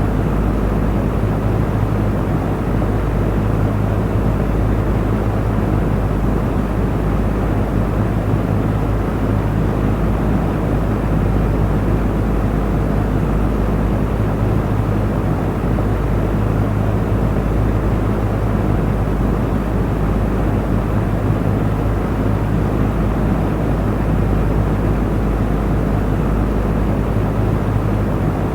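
Electric fan running steadily: a low motor hum under an even whoosh of moving air, unchanging throughout.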